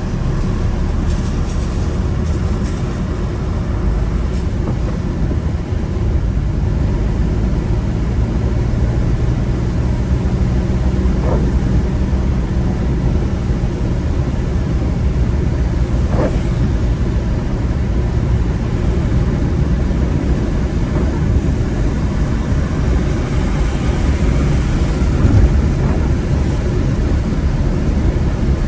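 A car being driven: steady low rumble of engine and tyre noise, with two faint short knocks partway through.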